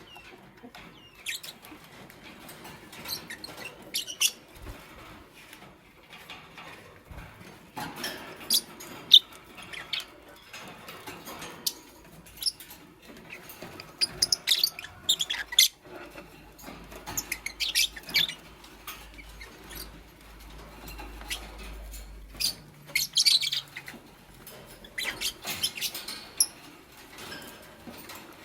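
Fischer's lovebirds making short, high squeaky chirps mixed with small clicks and rustles, coming in irregular clusters.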